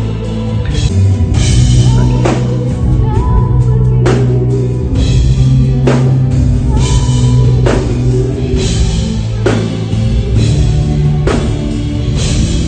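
Women singing a pop song over a live band with a drum kit, played loud and continuous.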